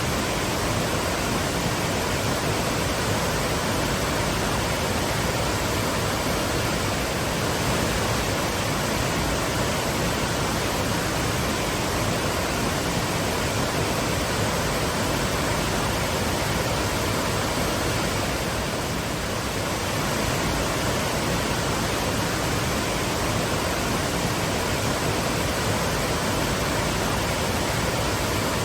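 Waterfall: water pouring and crashing down in a steady, unbroken rush.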